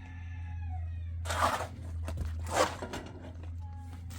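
A cat meowing, with two short, loud rushing noises about a second and two and a half seconds in, over a steady low hum.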